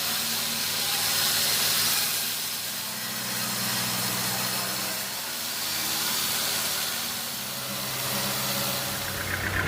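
Sawmill machinery running: a steady engine or motor hum under a broad hiss that swells and fades every few seconds.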